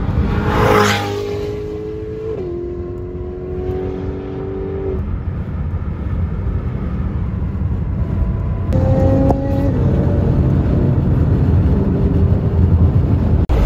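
High-performance car engines running on the street. The engine note holds steady, then steps down in pitch about two and a half seconds in, like a gear change. The sound changes abruptly about nine seconds in as another car's engine takes over.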